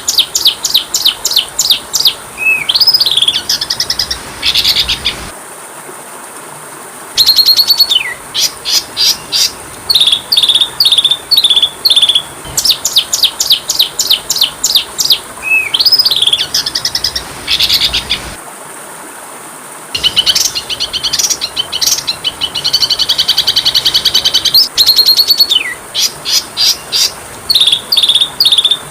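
Oriental magpie-robin (kacer) song: loud, rapid trains of sharp high chirps and whistled slurs, broken by two short pauses. The phrases repeat about every 13 seconds, as in a looped recording.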